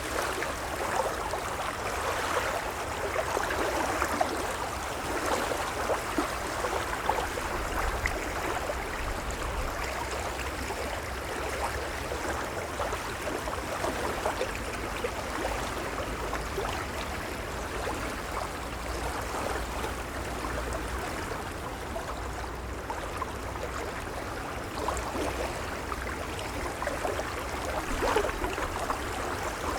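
Gentle waves: a steady wash of moving water with a low rumble underneath.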